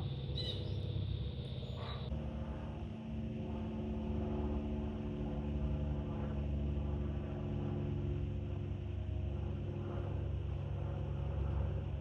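Aircraft engine rumble, steady and low, joined about two seconds in by a drone of several steady tones. A few short bird chirps are heard at the start.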